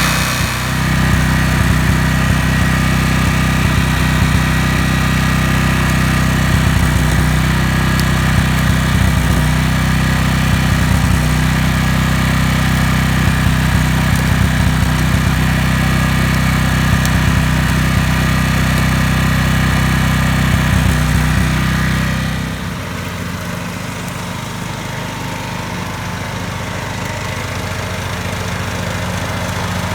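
Portable generator's small gasoline engine running steadily on its freshly flushed fuel tank. About 22 seconds in, its note changes and it becomes quieter.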